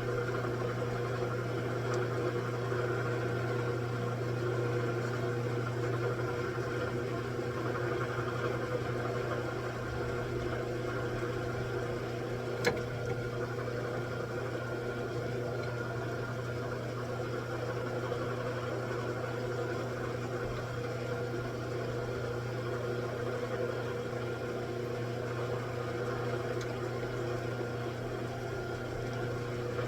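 A machine running with a steady hum, with one sharp click about halfway through.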